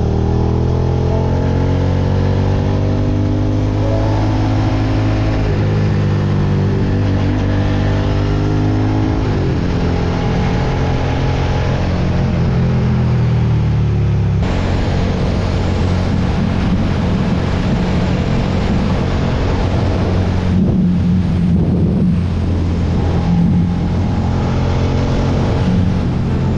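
Suzuki SV650X's V-twin engine running under way, its pitch rising and falling as the throttle opens and closes. About halfway through, the sound changes abruptly to a rougher, noisier engine rush.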